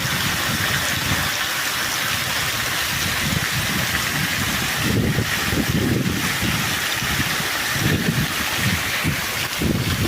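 Very heavy rain pouring down steadily in a dense hiss, with low rumbling surges coming and going, the strongest about halfway through and near the end.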